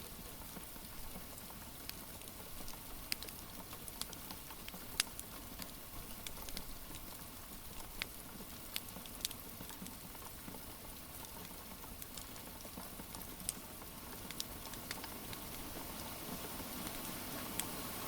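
Steady rain hiss with the irregular sharp pops and crackles of a wood fire.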